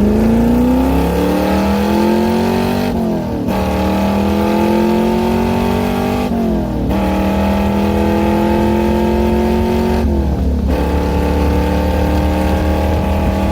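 Car engine accelerating hard up through the gears, its pitch climbing steadily and falling back at three upshifts, about three, six and a half and ten seconds in.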